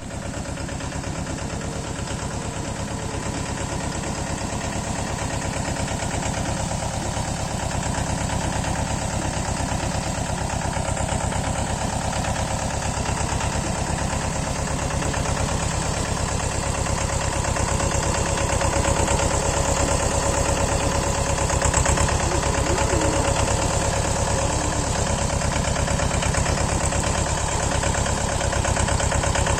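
Mahindra Jivo 245 DI 4WD mini tractor's two-cylinder diesel engine running with a steady chugging beat, getting a little louder about halfway through.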